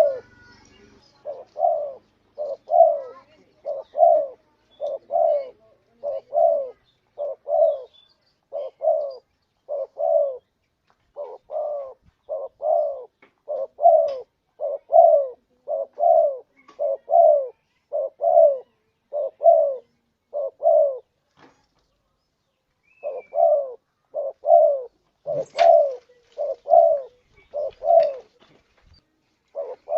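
Spotted dove (tekukur) cooing: a long run of short, evenly spaced coos, about one and a half a second, broken by one pause of about two seconds about two-thirds of the way through. A brief click sounds shortly after the calls resume.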